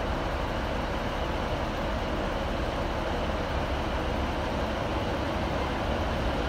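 Class 390 Pendolino electric train running slowly into the platform, a steady rumble and hum of the approaching train.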